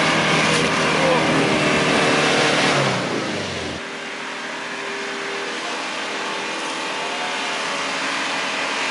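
Mitsubishi Pajero Sport's engine revving hard as the SUV pushes through deep mud. About four seconds in the sound changes abruptly and the engine carries on quieter at steadier revs, rising briefly near the seven-second mark.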